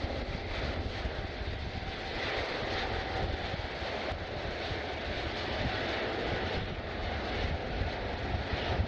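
Jet airliner engines heard as a steady, even rushing noise with a low rumble underneath.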